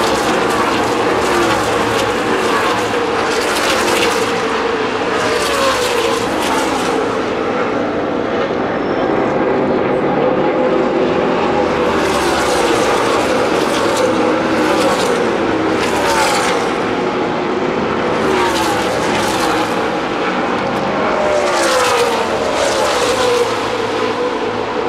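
NASCAR Nationwide Series stock cars' V8 engines at racing speed, passing one after another. Each car's pitch falls as it goes by, over a continuous blend of engine and tyre noise.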